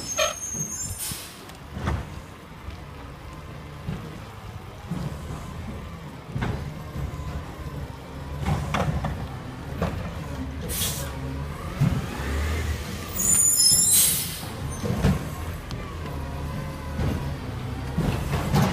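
Recycling garbage truck's engine running with a steady low rumble, broken by several sharp bursts of air-brake hiss, the loudest about a second in, near the middle and about three-quarters of the way through.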